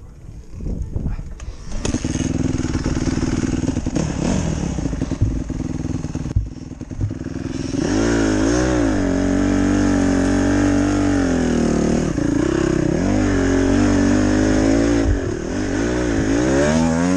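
Honda CRF150R dirt bike's single-cylinder four-stroke engine being ridden. It is quiet for about the first two seconds, then runs louder, and from about eight seconds in its pitch rises and falls again and again as the throttle is opened and closed.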